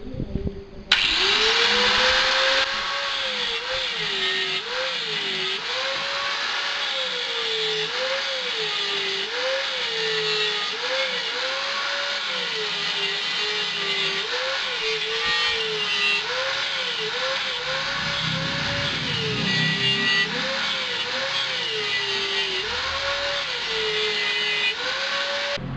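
A power cutting tool saws through the steel shell of a refrigerator compressor, cutting in abruptly about a second in. Its motor pitch sags and recovers about once a second as the blade bites into the metal, over a steady cutting hiss.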